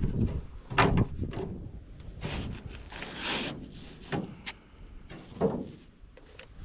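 Hollow knocks of a canoe paddle against the canoe's hull, several times, with a swish of water from a paddle stroke in the middle.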